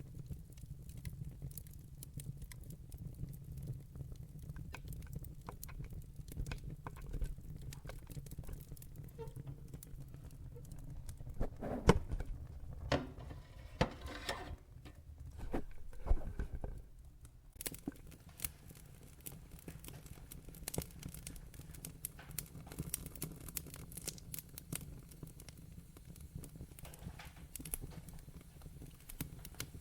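Wood logs burning in a fireplace: a steady low rumble of flame under constant crackling, with a busier run of louder pops and snaps around the middle.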